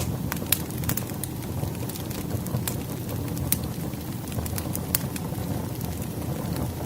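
Firewood logs burning in a fireplace: a steady low rumble of the flames with frequent sharp irregular crackles and pops, two louder pops about half a second and five seconds in.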